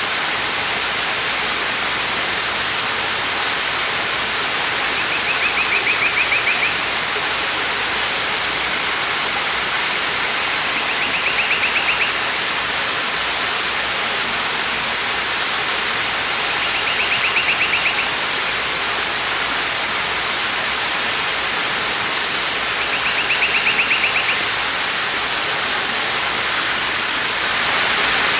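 Waterfall rushing steadily. A short, high, buzzy trill repeats about every six seconds, four times, and the rush gets slightly louder near the end.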